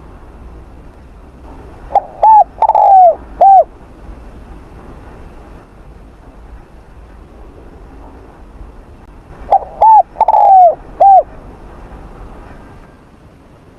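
Spotted dove cooing: two song phrases about seven seconds apart, each of two short coos, a longer falling coo and a short final coo.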